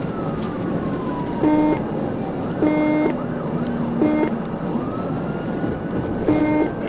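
Police patrol car siren on a slow wail, falling and then rising in pitch, with four short horn blasts over it and steady road noise beneath.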